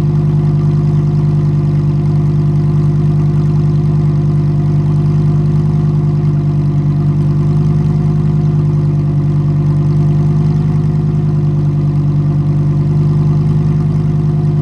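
Lamborghini Huracan Performante's naturally aspirated 5.2-litre V10 idling steadily through its exhaust, loud and even with no revving.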